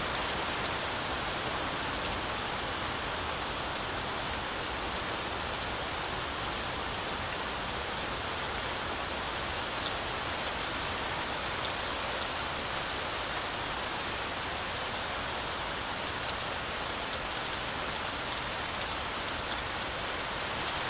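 Heavy rain falling steadily through forest trees: an even hiss with scattered sharp drop ticks.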